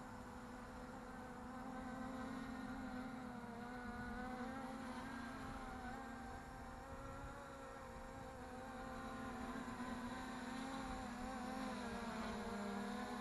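3D-printed DJI Mavic-clone quadcopter's propellers buzzing steadily in flight, the pitch wavering slightly as the motors adjust speed.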